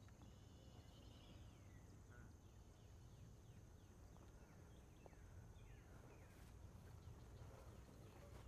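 Near silence: faint outdoor ambience with birds chirping in many short, falling calls over a steady high hum.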